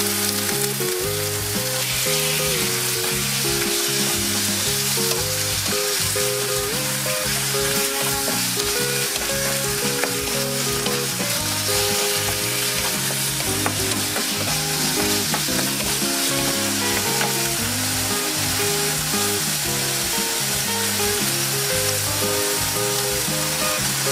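Diced chicken breast and garlic sizzling steadily in hot oil in a nonstick frying pan, stirred and tossed with a wooden spatula. Quiet background music plays underneath.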